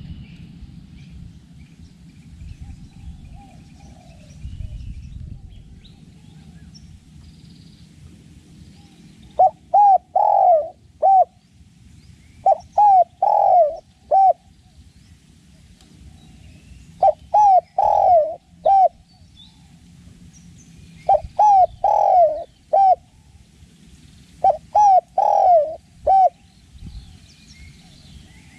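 Spotted dove cooing: five loud phrases, each a quick run of four or five short, rounded coo notes, repeated every three to four seconds.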